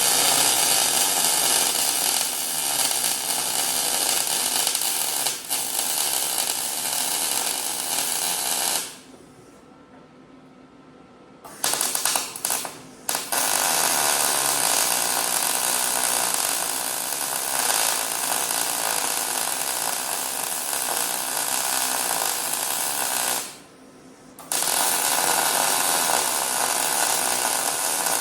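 Welder running long beads along the seams of a sheet-steel muffler, a steady crackling hiss. It stops for about two seconds roughly nine seconds in, gives a short burst, resumes, and pauses once more briefly near the end.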